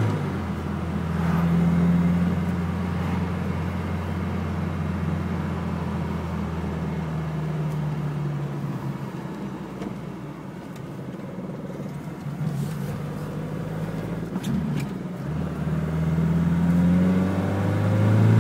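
BMW 2002's four-cylinder engine pulling the car uphill, heard from inside the cabin, running on the Weber 32/36's primary throat only with the secondary linkage removed. The engine note eases off around the middle, then climbs in pitch near the end as it pulls. It is on a lot less throttle but running fine.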